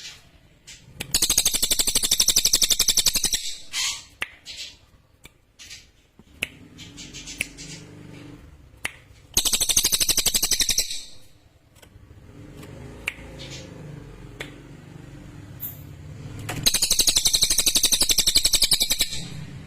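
A cililin songbird singing three loud bursts of a very fast, high-pitched trill, each lasting about two seconds, with a few short chirps between them. A faint low rumble sits underneath.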